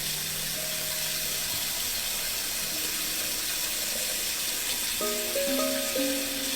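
Water running steadily from a tap, an even hiss at constant level, with soft background music notes joining about five seconds in.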